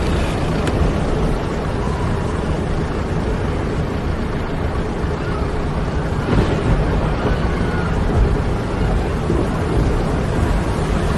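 Steady roar of a storm: wind and rain, with the wind rumbling on the microphone.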